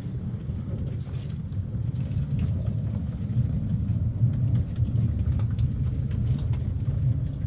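7 1/4 inch gauge miniature train running along the track: a steady low rumble of wheels on rails with scattered light clicks and knocks.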